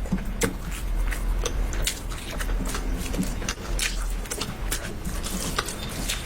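Close-up eating sounds: irregular wet clicks and crunches of chewing food, over a steady low hum.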